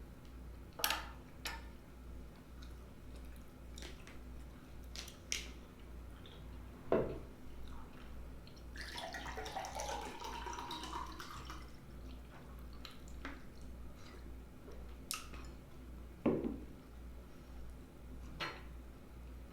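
Close-miked eating of chili mac: scattered clicks and clinks of a utensil against the dish, mixed with wet mouth and chewing sounds, over a faint pulsing low hum.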